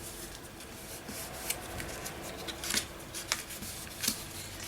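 Paper being handled and rubbed by hand as a glued paper hinge is pressed into place on a journal page: soft rustling with a few sharp crinkles and taps.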